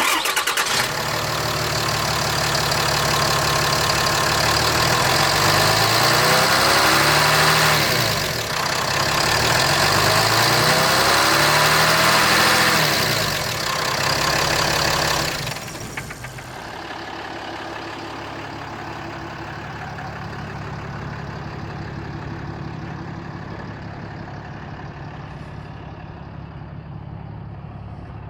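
Ram 4500 HD truck's engine starting and running fast, its pitch rising and falling a couple of times, then dropping about halfway through to a quieter, steady idle.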